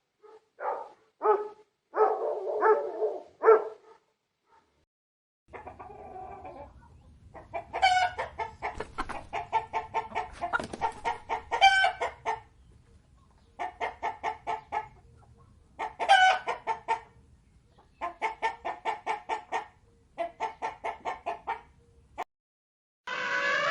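A few short barks from a dog, then, after a brief pause, chickens clucking and cackling in repeated quick runs of calls.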